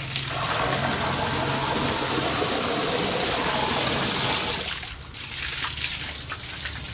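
Steady rushing of running water, easing off about five seconds in.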